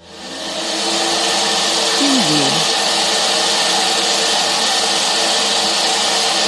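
Household vacuum cleaner switched on, its motor spinning up over about a second to a steady, loud whir with a strong hiss. About two seconds in a low tone briefly drops in pitch, then the motor keeps running evenly.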